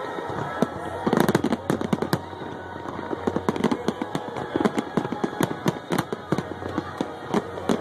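Fireworks display going off in a rapid, continuous crackle of sharp bangs, many a second, densest about a second in and again around six seconds.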